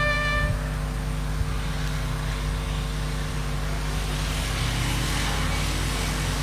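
A held musical chord cuts off about half a second in. After it comes steady room noise with a constant low hum.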